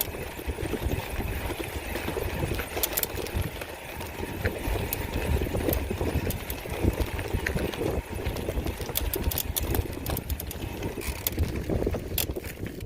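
Steady low rumble of wind buffeting the microphone, with scattered clicks and rattles throughout, as from travelling over rough ground.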